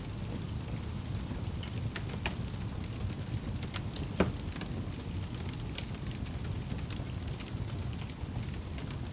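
Wood fire crackling: scattered sharp pops and clicks, one louder pop about four seconds in, over a steady low rumble of burning.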